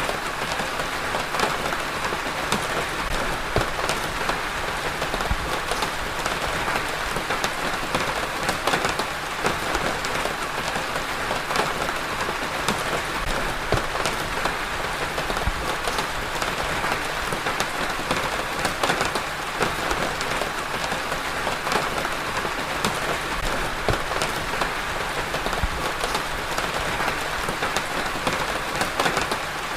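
Steady rain falling, with many individual drops ticking sharply against a surface close by.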